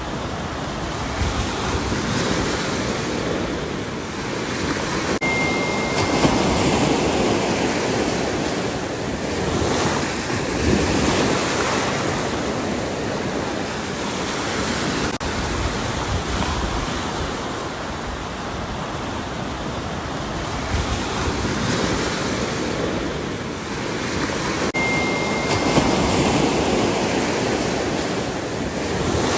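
Ocean waves breaking and washing on a shore, a steady rush that swells and eases every few seconds. A brief high steady tone sounds twice, about 5 and 25 seconds in.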